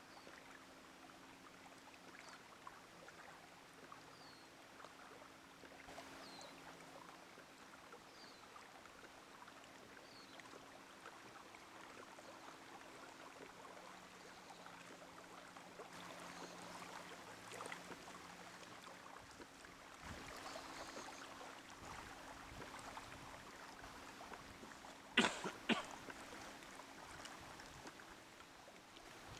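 Faint water trickling and lapping around a pedal-driven kayak moving through calm water. A short high chirp repeats about every two seconds for the first ten seconds, and two sharp knocks come close together near the end.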